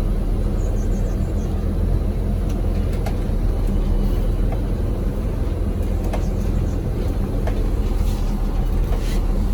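Charter coach bus running, heard from inside the passenger cabin: a steady low engine drone with faint scattered rattles and ticks.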